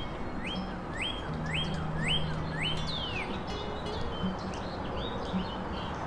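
A songbird singing a run of about six quick rising whistled notes, about two a second, ending in a longer falling note about three seconds in. Fainter chirps from other birds follow.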